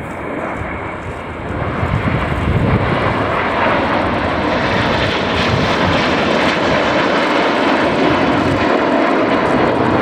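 Jet engines of a formation flypast: the RAF's Boeing E-7 Wedgetail AEW1 (a 737-700 airframe) with the Red Arrows' Hawk jets. The jet rumble builds over the first couple of seconds as the formation approaches, then holds loud and steady.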